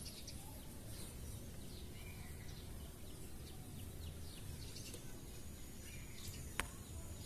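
Faint background bird chirping, many short falling calls, over a low steady rumble, with one sharp click near the end.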